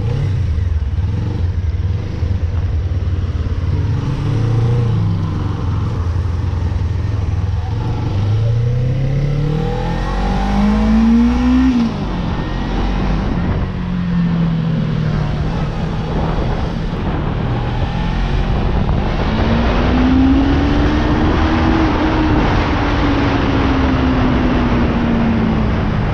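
Suzuki GSX250R's parallel-twin engine pulling away and accelerating: its note rises, drops sharply at a gear change about twelve seconds in, then climbs again and eases off toward the end, over a rushing noise that grows as speed builds.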